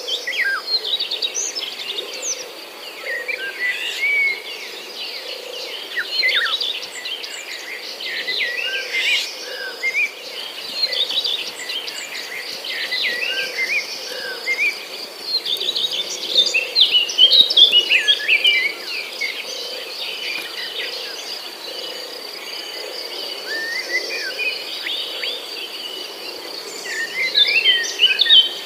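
Many birds chirping and calling, with short rising and falling whistles throughout, over a steady high-pitched insect drone.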